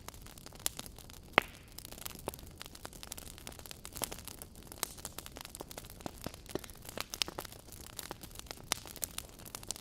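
Wood fire crackling in a fireplace: irregular sharp pops and snaps over a soft steady hiss, with one louder pop about a second and a half in.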